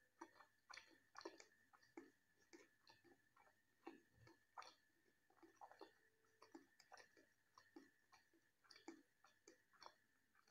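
A person chewing soft food close to the microphone: faint, moist mouth clicks and smacks, irregular, a few a second. A faint steady high whine runs underneath.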